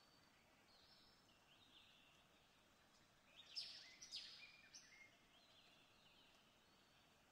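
Faint birdsong: scattered short chirps, with a louder run of chirps from about three and a half to five seconds in, over a faint steady hiss.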